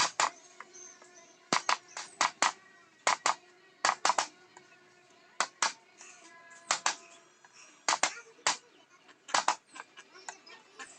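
Mallet tapping a carving chisel into teak: sharp taps, often two or three in quick succession, about twenty in all.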